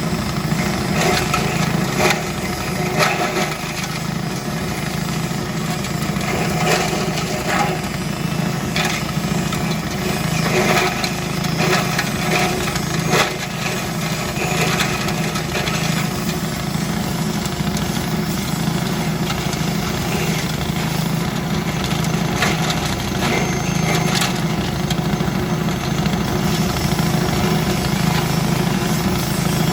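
Engine-driven grass chopper running steadily, with irregular sharp cracks and knocks through roughly the first half that grow sparse later on.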